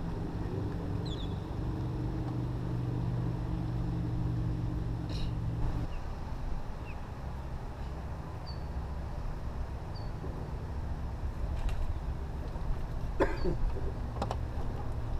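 A small motor hums steadily and stops about six seconds in. After that comes an even background hiss, with a couple of sharp knocks near the end.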